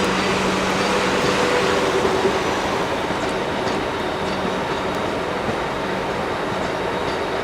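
Class 450 Desiro electric multiple unit pulling away from the platform: a steady rumble of running gear with a low held hum from the traction equipment, easing off slightly as it moves away.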